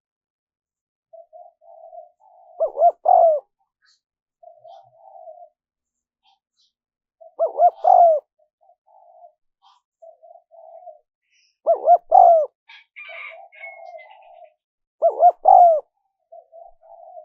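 Spotted dove cooing: a loud phrase of several coos about every four seconds, four times, with softer short coos in between. This is the kind of call played as a lure to provoke wild doves.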